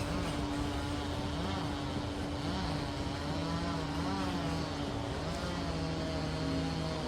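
Liebherr PR 746 crawler dozer's diesel engine running continuously under work, one tone held steady while another rises and falls several times as the engine speed wavers.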